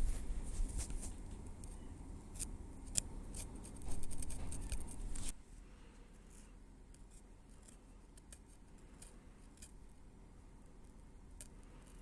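Metal tweezers clicking and snipping during scalp care, with many sharp clicks over a soft rustle. About five seconds in, the sound drops suddenly and only faint, scattered clicks remain.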